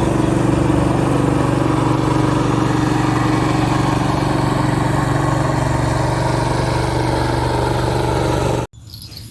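A small engine running steadily at an even speed. It cuts off abruptly near the end.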